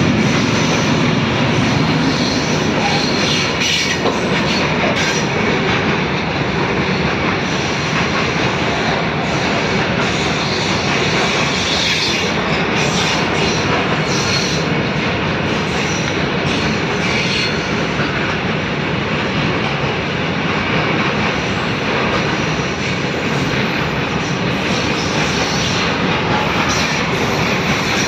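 A train running on the rails: steady, loud noise of wheels on track throughout.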